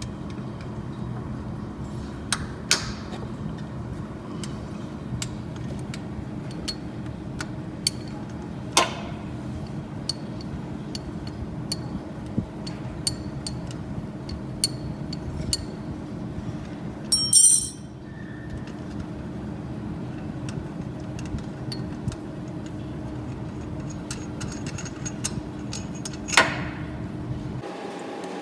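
Hand tools clinking and tapping on metal engine parts during disassembly, scattered irregular clicks over a steady low hum. A short, loud, rasping burst comes about two-thirds of the way through.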